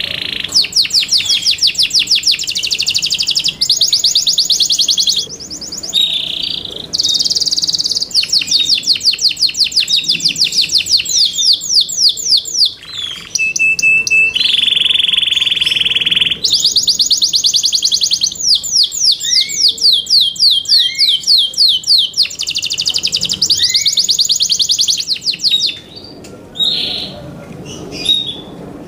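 Yorkshire canary singing: long tours of rapid trills, each a fast run of repeated notes, switching between pitches, with a steady held note about halfway through. Near the end the song breaks into a few short separate notes.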